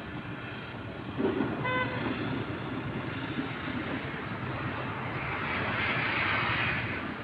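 A short single horn toot, about a fifth of a second long, a little under two seconds in, over a steady background rush. The rush swells with a hiss for a couple of seconds near the end.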